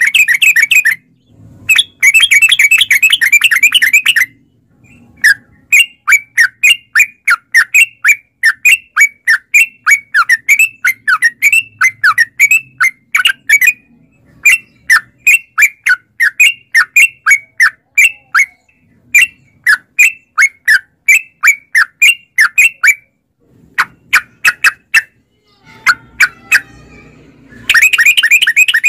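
Yellow-vented bulbul (trucukan) singing. Two dense bursts of quick chattering notes open the song. Then comes a long run of short, sharp notes at about three a second, broken by brief pauses, and a dense burst returns near the end.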